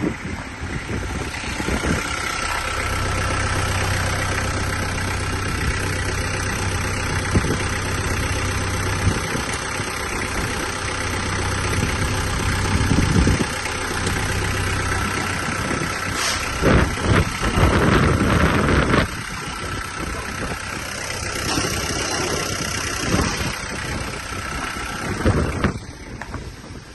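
Toyota 3C-E diesel engine of a Toyota Noah CR52 running at idle, with a few short louder noises about two-thirds of the way through.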